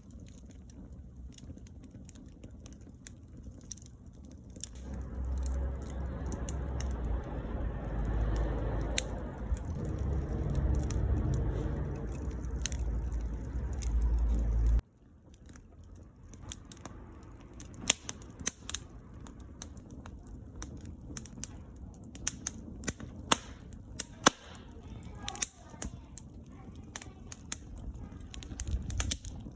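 Firewood burning in a wood stove, crackling with frequent sharp pops and snaps. For a stretch in the middle a loud low rumble covers the fire, then cuts off abruptly.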